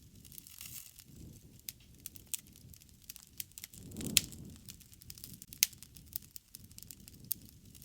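Wood campfire crackling: scattered sharp pops and ticks over a soft, steady low rumble of burning. The loudest pops come about four seconds in and again about a second and a half later.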